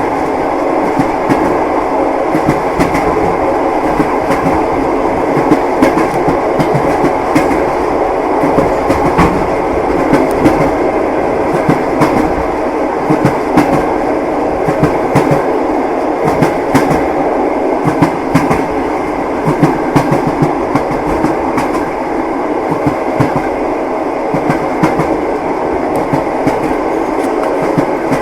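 Train wheels clacking over rail joints with a steady running rumble, as heard inside a passenger carriage.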